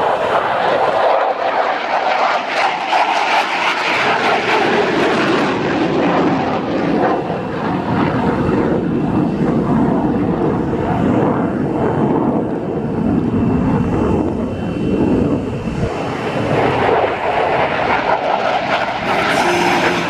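Fixed-wing aircraft engine noise, a loud steady roar that drops lower in pitch after about four seconds as the aircraft flies past.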